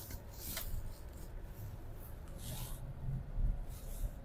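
Low, steady road and engine rumble inside a moving car's cabin, with a couple of brief rustles.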